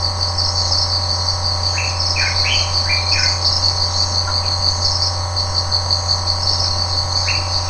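Crickets trilling steadily in a high, finely pulsing chorus, with a few short higher call notes about two to three seconds in and again near the end, over a low steady hum.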